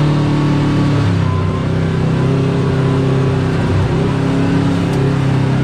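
Side-by-side UTV engine running at low trail speed; its note drops a little about a second in, then holds steady.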